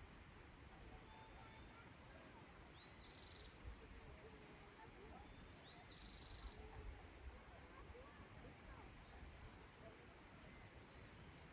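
Faint rural dusk ambience: a steady high insect hiss with scattered sharp ticks, two short arched chirps about three and six seconds in, and faint distant bird calls.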